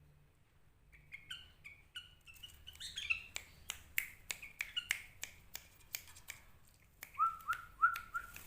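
Sooty-headed bulbul (kutilang) giving short chirps, mixed with sharp clicks about three a second, then four quick falling notes near the end.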